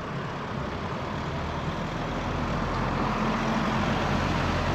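A heavy road vehicle's engine running as it drives past, its low hum growing steadily louder and peaking near the end.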